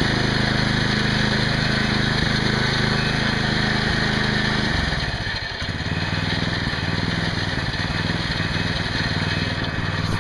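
Small replacement engine on a Bolens garden tractor running steadily. About five seconds in its note dips briefly and changes, then it runs on steadily.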